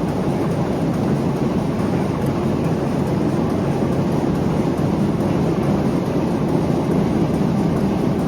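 Large Crossley 800 hp six-cylinder diesel engine running with a steady, deep rumble.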